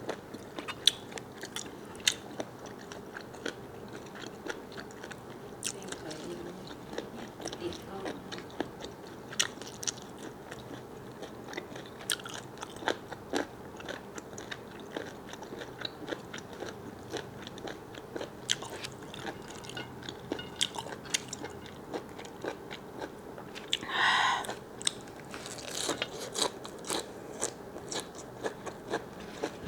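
A person chewing and biting squid, with many sharp wet mouth clicks and crunches. A short pitched sound stands out near the end.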